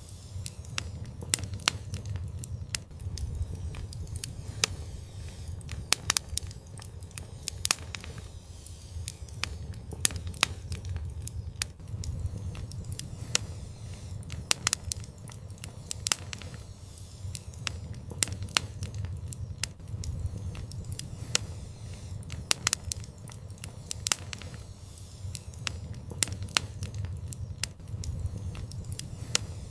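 Fire in an outdoor fireplace crackling, with frequent sharp, irregular pops over a low steady rumble.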